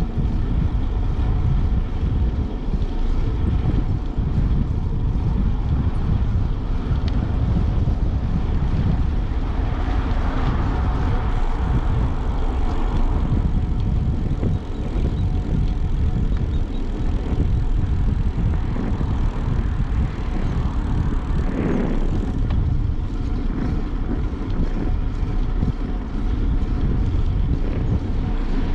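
Wind buffeting the microphone of a moving bicycle camera, a steady low rumble, with a short rising whine about twenty seconds in.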